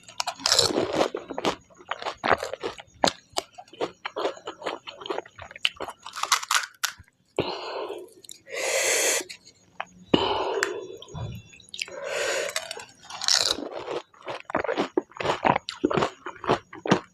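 Close-miked crunching and chewing of pani puri: the crisp fried puri shells crack in quick sharp snaps amid wet chewing. Several short, loud breathy sounds come between the bites.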